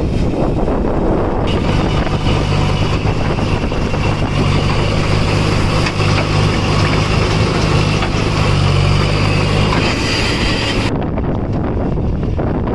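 Heavy diesel engine running at a steady speed over low rumbling noise; the steady engine tone drops away about ten seconds in.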